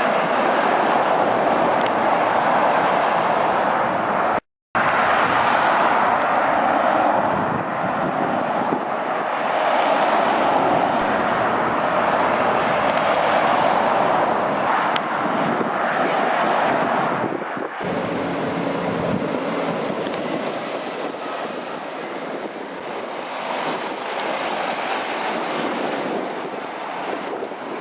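Heavy traffic on a dual carriageway: the continuous rush of tyres and engines from lorries and cars passing at speed, swelling and easing as vehicles go by, with wind buffeting the microphone. The sound cuts out for a moment about four seconds in.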